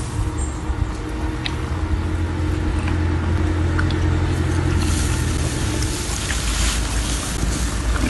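Boat motor running steadily, with the hiss of water and wind over it growing louder about five seconds in.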